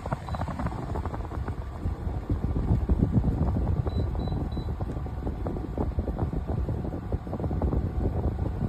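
Rushing, rumbling air noise with irregular low gusts, like a fan's airflow buffeting the microphone, with three short faint beeps about four seconds in. It cuts off suddenly at the end.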